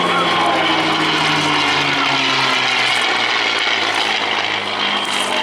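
P-51D Mustang's Packard-built Merlin V-12 engine and propeller running in a flypast, the engine note falling in pitch over the first few seconds as the aircraft passes.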